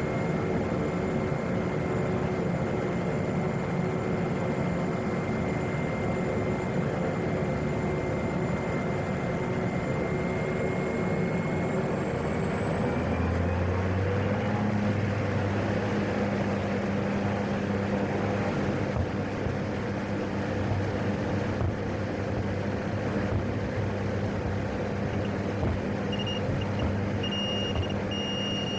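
Single-engine turboprop (PAC 750XL's PT6A) running in the cockpit; about 13 seconds in its whine rises in pitch and a deep propeller drone sets in as power comes up. A steady high tone joins near the end.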